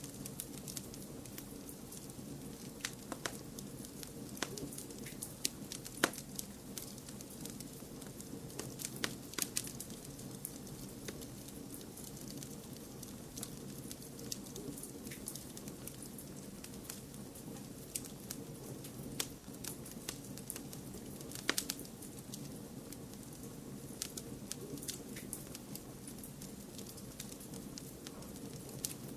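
Wood fire crackling: scattered sharp snaps and pops, a few of them louder, over a steady low rushing noise of flames blended with white noise.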